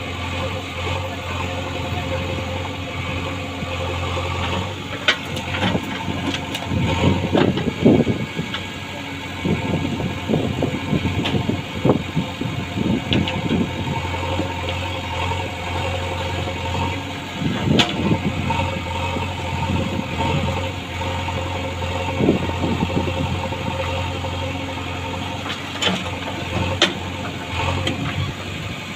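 Heavy diesel engine running steadily at a low, even pitch, with irregular bursts of clattering and knocking through it.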